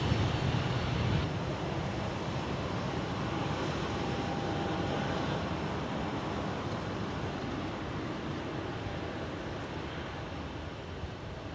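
Airliner engines running: a steady broad rush that eases off slightly toward the end.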